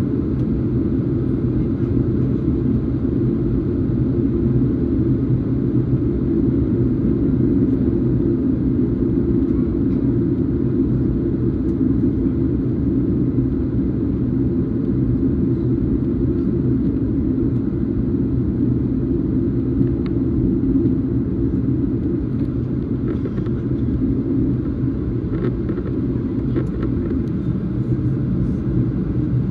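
Steady drone of a Boeing 737 heard from inside the passenger cabin: engine and airflow noise with a low hum, with a few faint clicks near the end.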